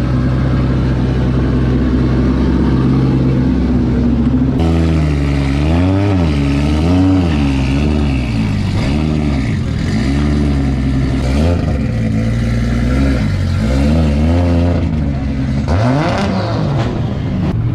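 Drift car engine, steady at first, then from about four and a half seconds in revving up and down over and over, with a long rising rev near the end, as the throttle is worked through a drift run.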